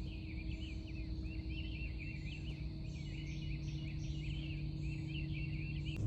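Many small birds chirping and twittering together, with a higher note repeating about twice a second, over a steady low rumble.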